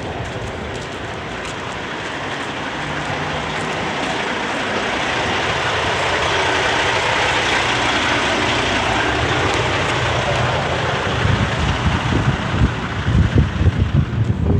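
A passing road vehicle's rushing tyre and engine noise swells to a peak about halfway through. In the last few seconds wind buffets the microphone.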